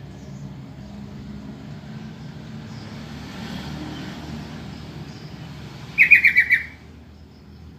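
Sooty-headed bulbul (trucukan) giving one short, loud call of about six quick bubbling notes about six seconds in, over a low steady background rumble. It is played as a lure call to make other bulbuls answer.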